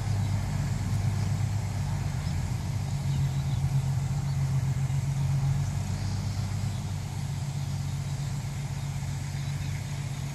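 Six-wheel dump truck's diesel engine running steadily at low revs.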